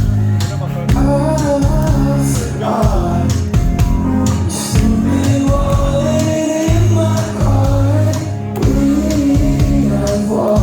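Live rock band playing loudly, with a male voice singing over heavy bass, drums and guitars.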